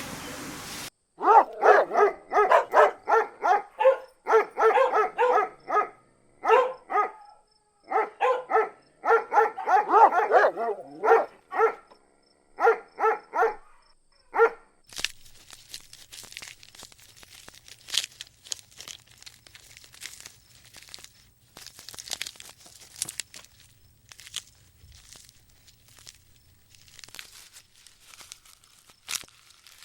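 An animal giving short, pitched calls in quick runs of about three or four a second, pausing between runs. About halfway through the calls stop and scattered clicks and crackles take over, with a faint low hum underneath.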